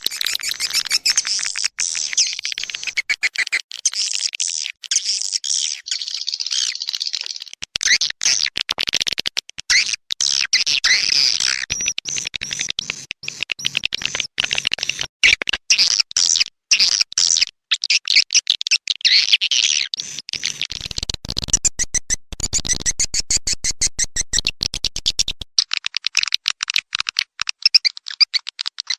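Swiftlet calls played from a swiftlet-house lure recording: a dense, continuous stream of rapid, high-pitched chirping and clicking trills. From about 21 to 25 seconds in, a deeper, rapidly pulsing layer comes in under the chirps.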